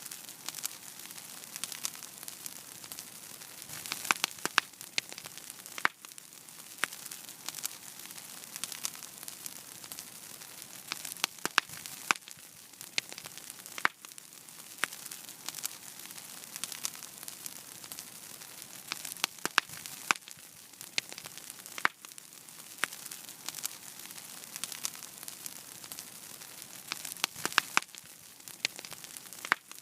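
Wood fire burning in a fireplace: a steady soft hiss with irregular sharp pops and crackles throughout.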